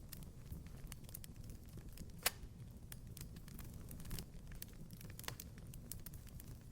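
Wood fire crackling in a fireplace: a low steady rumble of the flames with irregular small pops and clicks, and one sharper snap a little over two seconds in.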